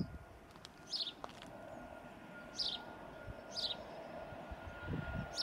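A small bird calling, four short falling chirps about a second apart, over faint steady background noise.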